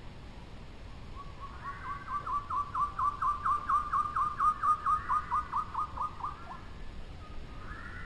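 A bird singing a trill: a run of about two dozen quick whistled notes, each sliding down in pitch, swelling to loudest past the middle and then fading over about five seconds. Fainter higher calls come just before and near the end.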